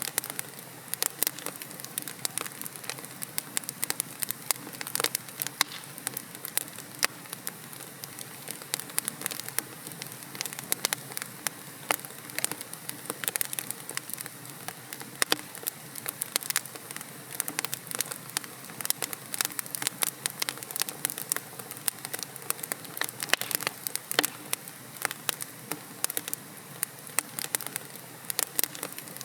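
Wood fire of burning logs crackling in a fireplace: irregular sharp pops and snaps, several a second, over a steady soft hiss.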